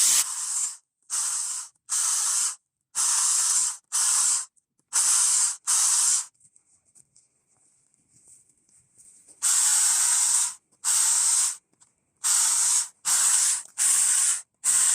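A saw cutting through a branch: about a dozen short hissing bursts in an uneven rhythm of roughly one a second, with a pause of about three seconds in the middle.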